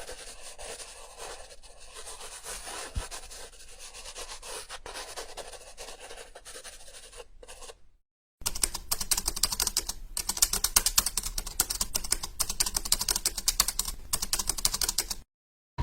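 Two short stock sound effects in a row. First a scratchy rubbing sound for about eight seconds. Then, after a brief silence, a dense, rapid clicking for about seven seconds that stops suddenly.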